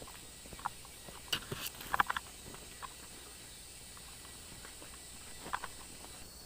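Scattered short crackles and snaps of twigs and leaf litter, over a faint steady forest hiss; most of the snaps fall in the first three seconds, with one more near the end.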